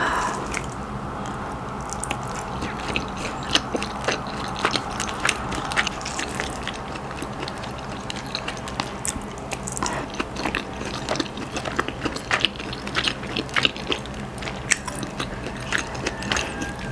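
Close-miked mouth sounds of someone chewing rice and shredded chicken pastil: many small sharp wet clicks and smacks, irregularly spaced.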